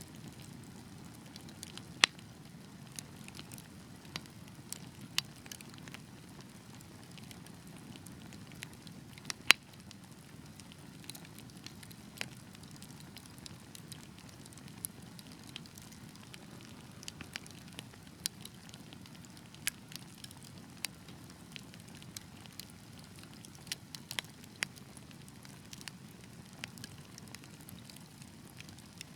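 Wood fire crackling: irregular sharp pops and snaps over a steady low rumble of the burning logs, with two louder pops, one about two seconds in and one about nine seconds in.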